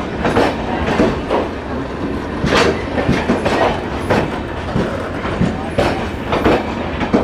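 Passenger coaches of an arriving express train rolling past along the platform: wheels clattering over rail joints in repeated knocks, a few a second, over a steady rumble.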